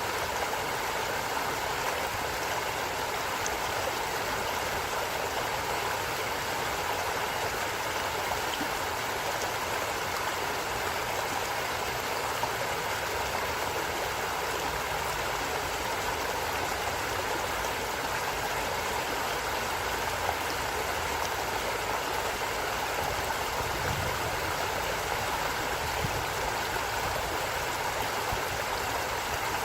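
Forest stream running, a steady, unbroken rush of water.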